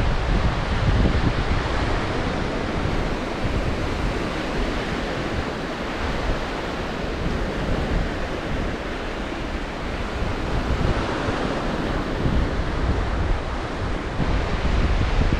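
Black Sea surf breaking on the shore, the wash swelling and easing over several seconds, with strong wind buffeting the microphone in a low rumble.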